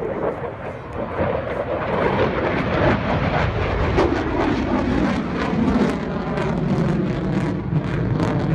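Jet noise from an F-35A's single Pratt & Whitney F135 turbofan during an air show pass. The rumble swells about a second in and stays loud, with a rough crackle running through it.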